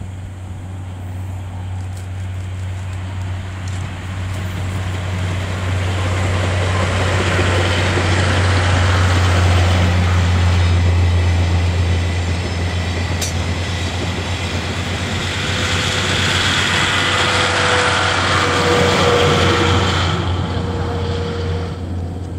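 A DE10 diesel-hydraulic locomotive hauling 12-series passenger coaches passes by. Its engine drone and the running noise build to a peak about ten seconds in as the locomotive goes past, the coaches keep rolling past with a second swell of rail noise and a few steady tones, and the sound fades near the end as the train moves away.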